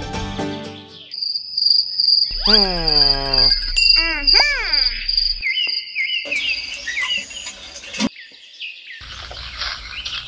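A steady, high insect trill like crickets, with bird chirps in the second half and a few whistle-like falling and rising pitch glides near the middle.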